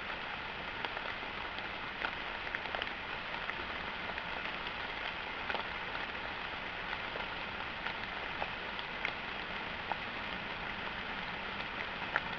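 Rain falling steadily in woodland, a constant hiss with scattered single drops clicking throughout.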